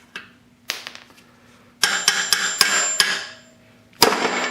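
Hammer blows on metal with a ringing after each, driving out a tightly stuck part. There is one blow, then a quick run of about six, and a hard, loudest blow near the end.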